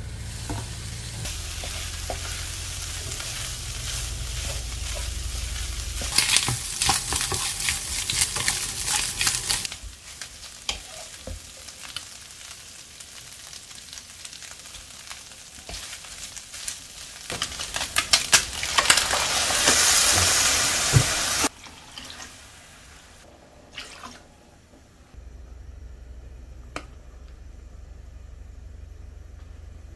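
Chopped tripe and offal sizzling in a frying pan and stirred with a wooden spoon, the spoon clicking and scraping against the pan. The sizzling grows loudest about two-thirds of the way through, then cuts off suddenly.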